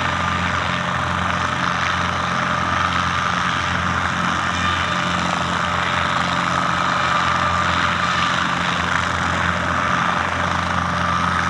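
Cessna 152's four-cylinder Lycoming O-235 piston engine and propeller running steadily at a constant low power, with no change in speed.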